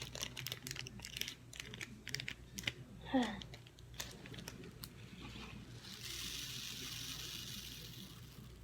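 Small polystyrene foam beads being poured into a container, falling as many quick light ticks, then a steady hiss of beads for a couple of seconds near the end. A brief falling squeak comes about three seconds in.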